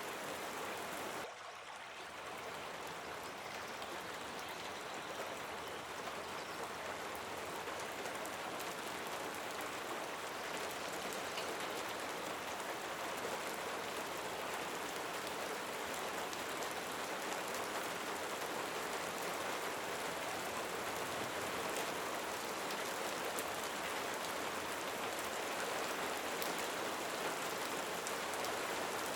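Steady rain falling with a dense patter of drops. The sound drops briefly about a second in, then comes back and builds slowly.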